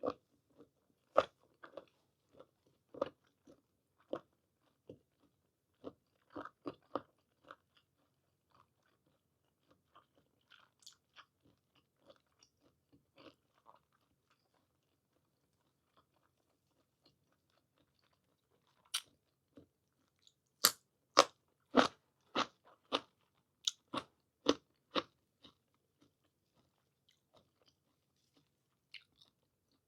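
Close-up mouth sounds of someone chewing soft, chewy blanched squid: irregular wet clicks and smacks, sparse in the middle, then a quick run of louder smacks about twenty seconds in.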